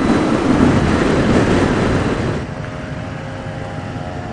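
Motorcycle riding at speed, with wind and engine noise and a heavy low rumble. About two seconds in the noise drops as the bike slows, leaving a quieter, steady engine hum.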